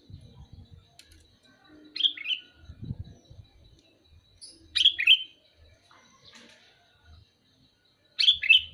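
Sooty-headed bulbul (kutilang) calling: a short phrase of two quick down-sliding notes, given three times about three seconds apart.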